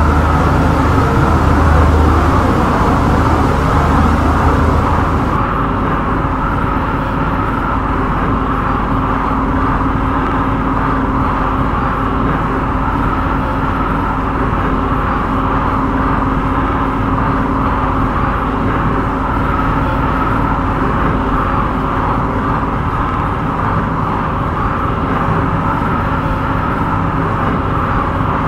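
MTR Kwun Tong line C-Train running between stations, a steady rolling and traction hum with a constant droning tone. A deeper hum in the first five seconds dies away.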